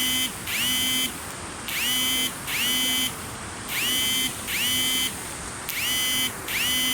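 Electronic chirping signal, like an alarm or ringtone: pairs of short beeps that each sweep up in pitch and then hold steady, repeating about every two seconds, four pairs in all.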